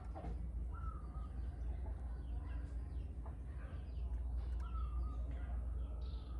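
Flowerpecker lure-call recording: short, sharp high ticks and chirps scattered among other bird calls, over a steady low hum.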